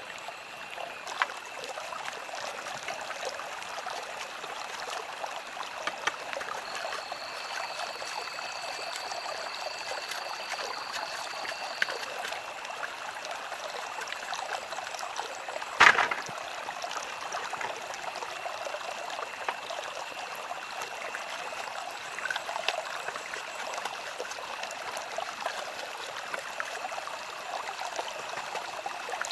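A stream of water running steadily, with a thin steady high-pitched tone over it. A single sharp knock comes about halfway through.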